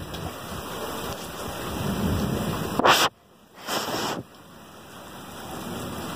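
Heavy storm rain pouring, a steady hiss of rain on surfaces. About three seconds in comes a loud rushing burst, then the sound cuts out almost to silence for a moment, a second shorter burst follows, and the rain noise slowly builds back.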